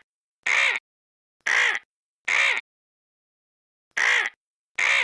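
A harsh, cawing bird call repeated six times: four in quick succession, a pause of about a second, then two more. Each call is short and rises then falls in pitch. It is played as the vulture's call.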